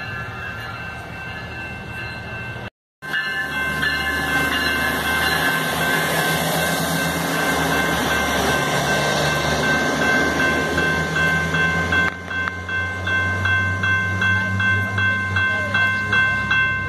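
SMART Nippon Sharyo diesel multiple-unit train pulling out and passing close by, its diesel engines running with a steady low drone as the cars go past. A level-crossing bell rings over it, its strokes distinct at about two a second over the last five seconds. The sound breaks off briefly about three seconds in.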